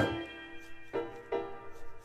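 Background piano music: a few sustained notes, with new notes struck about a second in and again shortly after.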